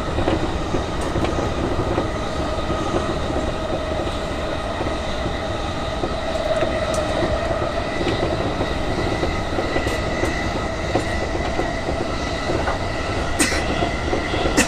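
E233-6000 series electric commuter train running along the line. Its wheels make a steady rolling noise on the rails, with faint steady whine tones from the traction equipment. There is one sharp click about 13 seconds in.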